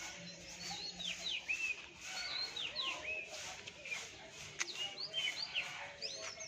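Several small birds chirping, with many short, sweeping chirps overlapping throughout. A single sharp click sounds about four and a half seconds in.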